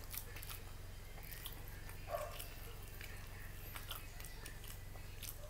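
Close-up eating sounds: chewing and small fork clicks while pancit canton noodles are lifted from the plate, with one brief louder mouth sound about two seconds in, over a steady low electrical hum.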